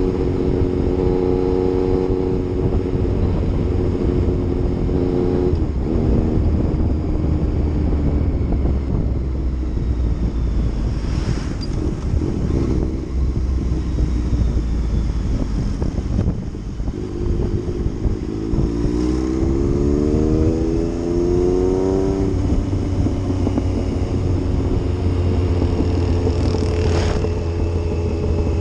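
Yamaha MT-09's inline-three engine running under way on the move, the engine note steady at first, then climbing in pitch for several seconds past the middle as the bike accelerates, and holding steady again near the end.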